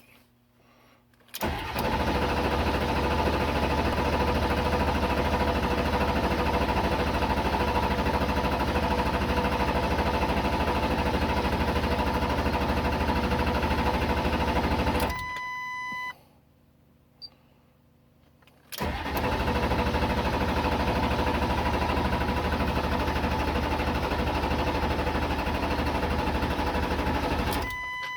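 Starter cranking a 7.3 L Power Stroke V8 diesel that will not fire, a no-start after injector replacement: two long cranks, the first about 13 seconds and the second about 9, each ending with a short beep.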